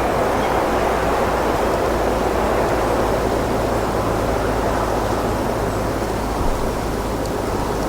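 Wind blowing steadily, a constant even rush without gusts or breaks.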